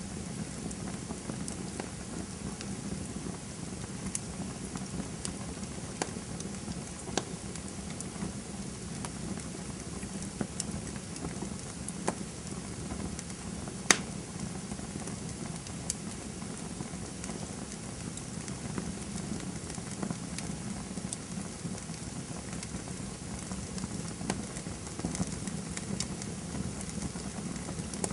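Campfire burning: a steady hiss and low rumble of flames with irregular sharp crackles and pops of burning wood, one louder pop about halfway through.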